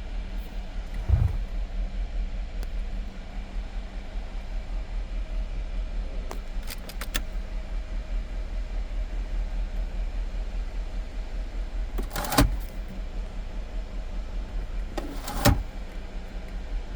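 Mercedes-Benz GL550's engine idling steadily, with a few sharp knocks and clicks about a second in, around twelve seconds and near the end, and a brief run of ticks partway through.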